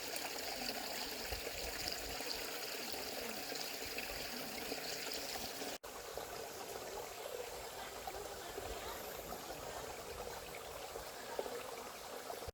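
Shallow valley stream flowing, a steady trickling rush of water, broken by a momentary dropout about six seconds in.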